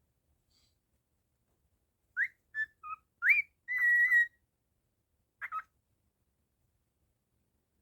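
Cockatiel whistling a short phrase of clear notes starting about two seconds in: a few quick rising and level notes, then one held note, followed by a single brief chirp.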